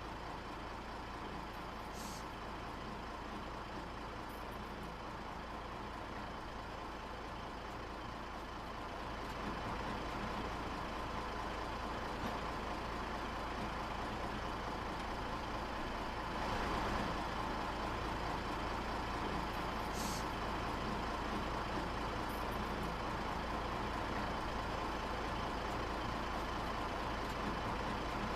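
Steady mechanical hum and rumble of a cargo ship's machinery as she manoeuvres alongside, with a constant whine over it. It grows a little louder about a third of the way in and again just past halfway.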